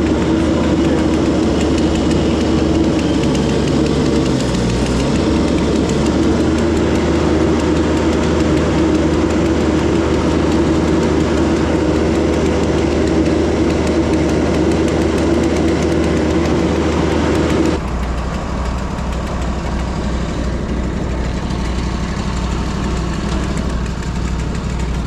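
Woodland Mills portable bandsaw mill's gas engine running steadily through a cut. About three-quarters of the way in, the sound drops abruptly to a quieter, lower run.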